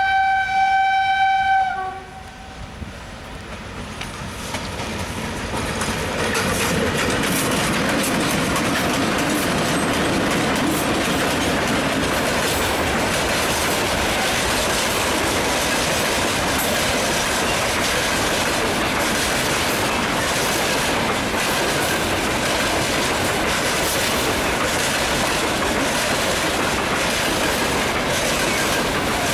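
VL11M electric locomotive sounding its horn in one loud steady blast of about two seconds, with a brief second note as it ends. The freight train then comes closer and passes, its wagons rumbling with a steady clickety-clack of wheels over rail joints.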